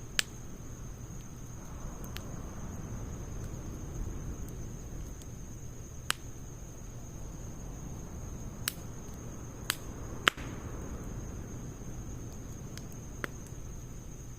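Log campfire crackling, with about six sharp pops of burning wood spread through, the loudest about ten seconds in. A steady high insect trill runs behind it.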